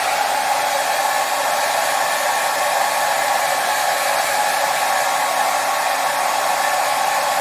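Hair dryer running continuously at a steady speed: an even rushing of air with a faint motor whine and no change in pitch or level.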